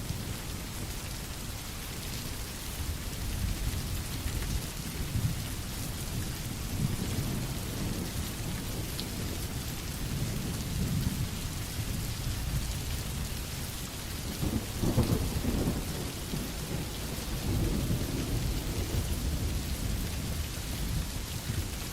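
Steady rain with low rolling thunder rumbling in and out, the loudest roll about fifteen seconds in.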